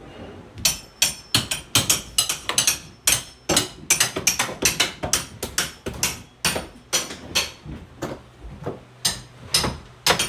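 Hand tools striking and prying during demolition of flood-damaged interior: hammer and crowbar blows in an irregular run of sharp knocks, several a second.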